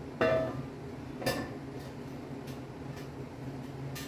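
Steel parts knocking together in a shop: one sharp ringing clank just after the start, a smaller clank about a second later, then a few light ticks, over a steady low hum.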